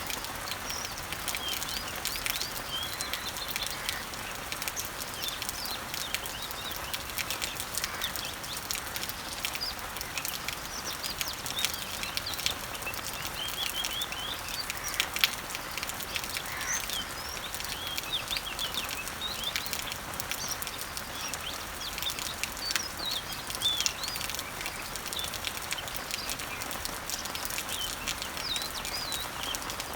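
Steady rain falling on garden leaves and trees, a hiss with many sharp drip ticks, while several birds chirp throughout.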